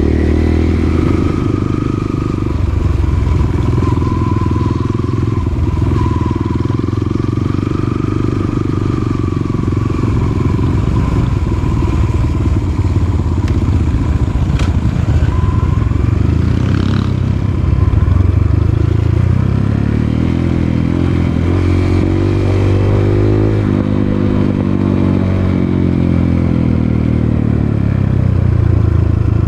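Dirt bike engine running while riding an off-road trail, its revs rising and falling as the rider works the throttle and gears, with one sharp click about halfway through.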